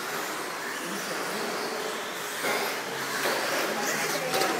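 1/10-scale electric RC stadium trucks racing on an indoor dirt track: a steady mix of motor whine and tyre noise, with a couple of sharp clicks near the end.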